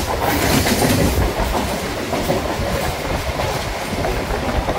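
MMTS suburban electric local train running along the track, its wheels on the rails heard loudly through the open doorway.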